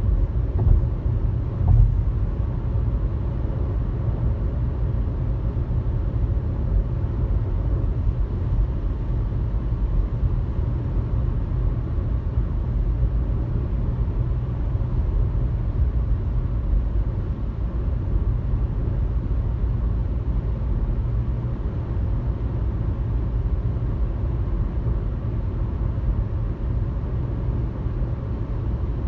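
Steady low rumble of road and engine noise heard inside a car cruising on a highway, with a few light bumps in the first couple of seconds.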